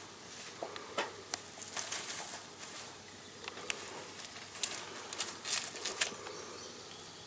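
Scattered light taps and rustles, over a faint buzzing of flies.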